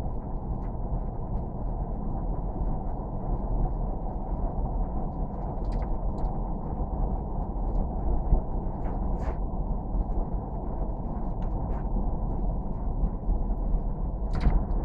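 Steady low rumble of a vehicle in motion, with a few faint ticks.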